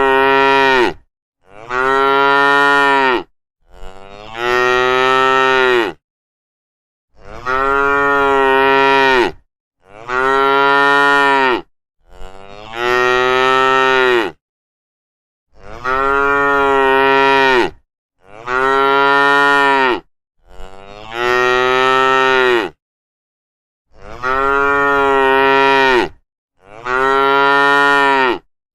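Cows mooing: about a dozen long moos of about two seconds each, with dead silence between. The same three calls repeat over and over, identical each time, and the third bends in pitch at its end.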